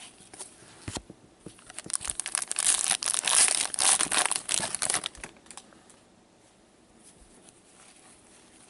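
Foil hockey card pack wrapper being torn open and crinkled, a dense burst of crackling lasting about three seconds. Before it come a few light clicks of card handling.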